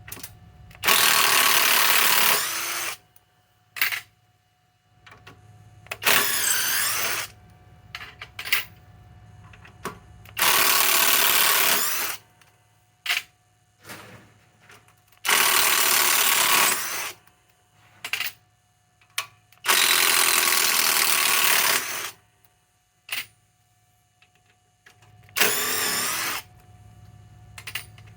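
SKIL PWR CORE 20 cordless impact driver backing out fasteners. It runs in six separate bursts of one to two seconds each, with short clicks in the gaps between them.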